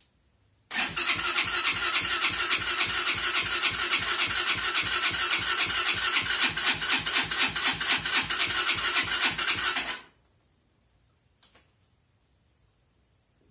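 Freshly swapped 200cc engine being cranked by its electric starter: a fast, even chugging for about nine seconds that stops suddenly without the engine catching, followed a moment later by a single click.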